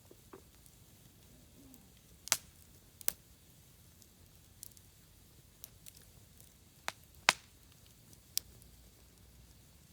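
Burning wood in a campfire crackling: a handful of sharp, scattered pops, the loudest about two and a half seconds in and about seven seconds in.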